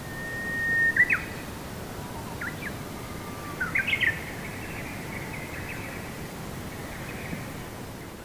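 Songbirds calling over a steady outdoor hiss: a held whistle for about a second, then short sharp chirps, with a quick cluster of chirps about four seconds in.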